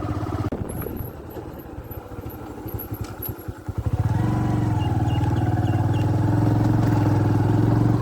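Vehicle engine running on the move. It is quieter and uneven for the first few seconds, then from about halfway it picks up into a louder, steady hum that holds.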